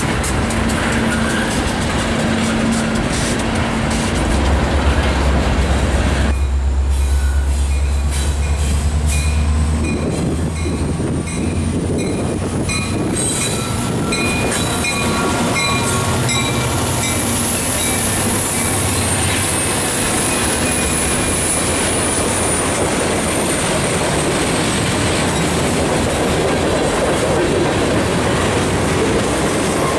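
Freight train cars rolling close past: steel wheels clicking over rail joints and squealing on the rails. A locomotive's low diesel rumble comes in during the first ten seconds, and thin high squeals rise and fall through the middle.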